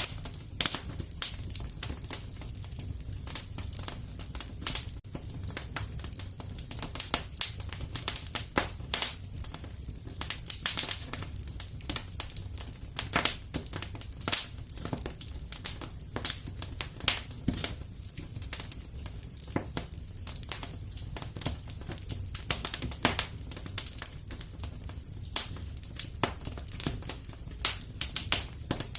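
Fireplace wood fire crackling, with irregular sharp pops and snaps over a steady low rumble of the flames.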